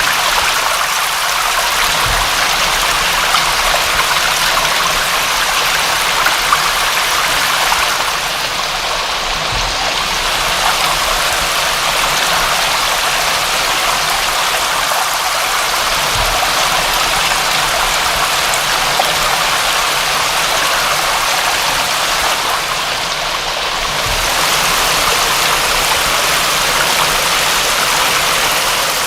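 Steady rain falling, an even, unbroken hiss of water, with a few faint low thuds.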